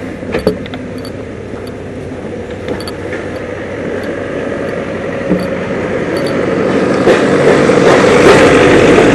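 Lawn care truck towing a mower trailer drives up, its engine and road noise growing steadily louder, with a few sharp knocks. The knocks come from stand-on mower platforms banging on the trailer.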